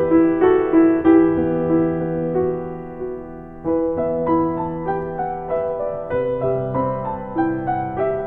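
Background piano music: a melody of struck notes over sustained low bass notes, briefly dropping away about halfway through before picking up again.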